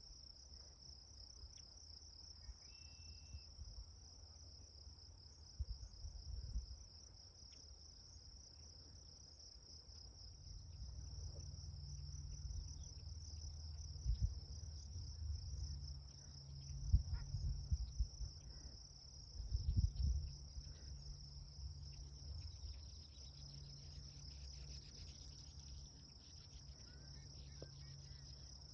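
Crickets trilling in a steady, high-pitched chorus. Low rumbling and a few thumps come through about halfway in.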